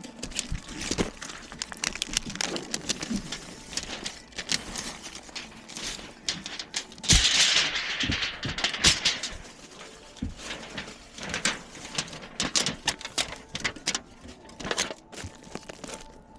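A busy clatter of sharp clicks and knocks, with a loud burst of hiss about seven seconds in.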